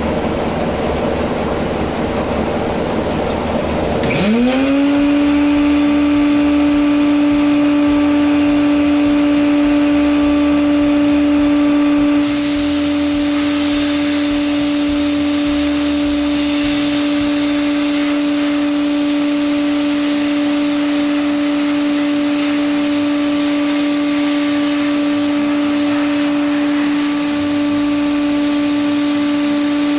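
Bead blasting at work: a steady air hiss, joined about four seconds in by an electric motor that spins up quickly to a steady whining hum. About twelve seconds in the hiss turns brighter and fuller, and both then carry on steadily.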